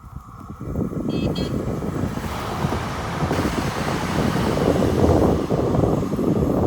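Train rumble and rail noise growing louder from about two seconds in as the train comes closer.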